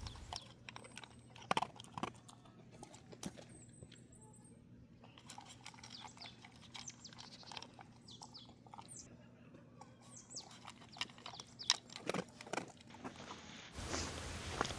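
Chewing and crunching: a run of small, irregular crunches and clicks.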